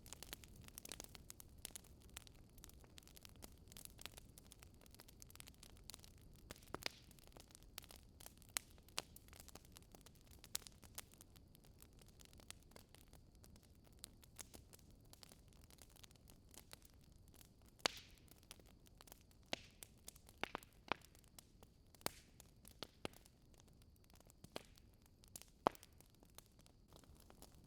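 Wood fire crackling in a fireplace: scattered, irregular sharp pops and snaps over a soft low background, with a few louder pops, the loudest a little past the middle and near the end.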